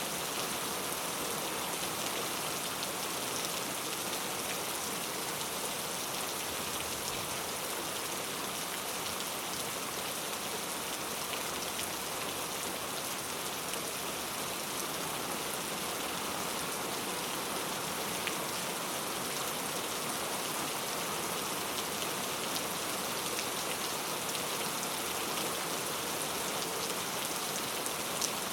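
Steady heavy rain falling on surfaces, an even hiss with scattered sharper drop ticks.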